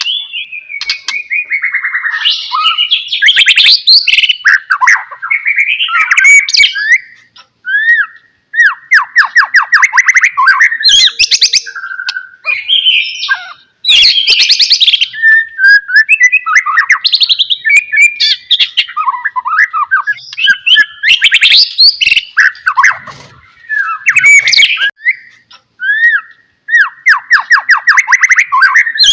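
White-rumped shama (murai batu) singing a long, varied song of loud whistles, fast rattling trills and harsh notes in quick succession, with only brief pauses.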